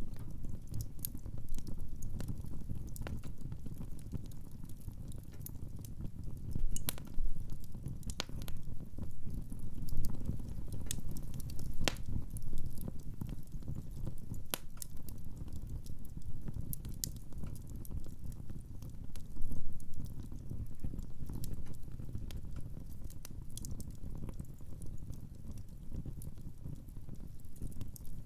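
Wood fire burning in a fireplace: a steady low rumble of flames with irregular crackles and sharp pops of the firewood, a few louder pops scattered through.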